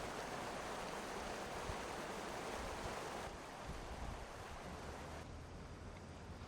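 Steady rushing water of a mountain river, a dense even noise that drops a little in loudness and brightness about halfway through and again near the end.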